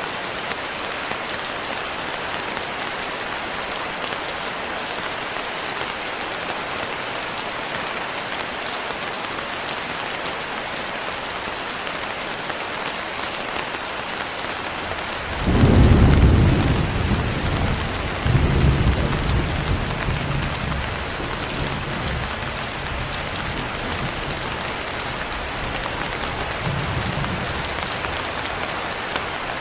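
Steady heavy rain hissing on surfaces. About halfway through, a roll of thunder breaks in as a loud low rumble with a second crack a couple of seconds later, then dies away over a few seconds; a faint distant rumble follows near the end.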